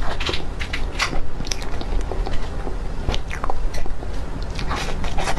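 Close mouth sounds of someone eating soft cream cake: irregular wet chewing and lip smacks, a few to the second.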